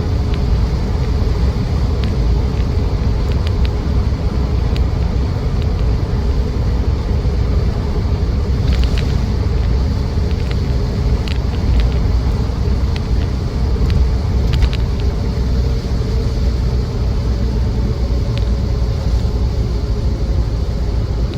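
Land Rover Defender 90's 2.4 TDCi four-cylinder turbodiesel and road noise heard from inside the cab while driving: a steady low rumble, with a few light clicks and rattles partway through.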